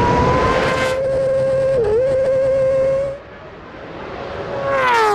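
Motorcycle engine held at high revs, running steadily for about three seconds before dropping away suddenly. Near the end it comes back with falling pitch as the revs come down.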